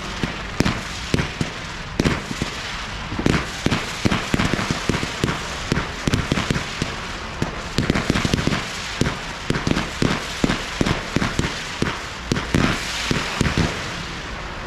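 Fireworks display: a rapid, continuous barrage of shell bursts and bangs, several a second, over a steady crackle.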